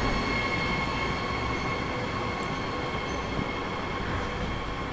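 Train running past on the line, a rumble with a steady high-pitched whine over it, slowly fading as it moves away.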